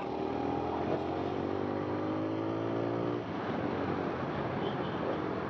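Motorcycle engine running on the move, its note falling slowly as it eases off for about three seconds, then fading under steady wind and road rush.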